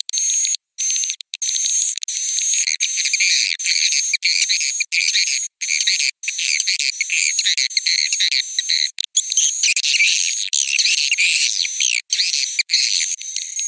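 Swiftlet roosting call (suara inap): many swiftlets twittering and chirping in dense, high-pitched overlapping calls, cut by several brief sudden gaps. It is a recorded lure sound, played to make swiftlets settle and roost in a nest house.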